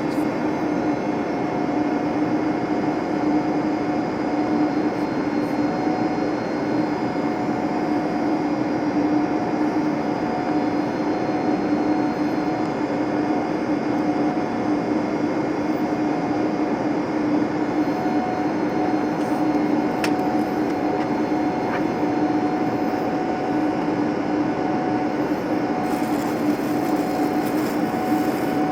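Airbus A321neo cabin noise on approach: a steady rush of engine and airflow noise with a constant low hum, heard from inside the cabin.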